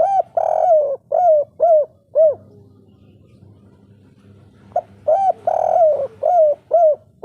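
Spotted dove (derkuku) cooing: two song phrases about five seconds apart. Each is a long drawn coo followed by three short separate coos, the 'kuk 3' song type.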